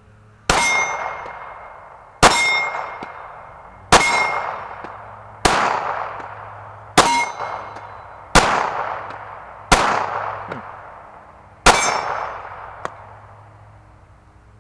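Eight 9mm pistol shots from a Glock 26, spaced about one and a half seconds apart. Each shot is followed by a ringing clang from a steel target being hit, with a small click near the end.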